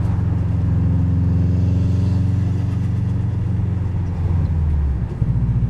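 Subaru WRX turbocharged flat-four engine and road noise heard from inside the cabin, a steady low drone at an even speed. The engine note changes about four to five seconds in.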